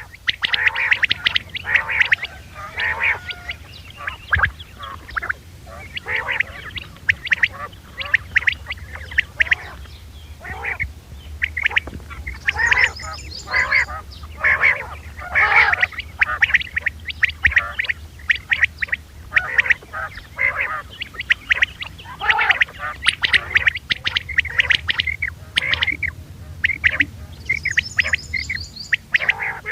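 Recorded quail calls of the kind played as a hunting lure: many short call notes repeated rapidly and overlapping, with no pause. A steady low hum runs underneath.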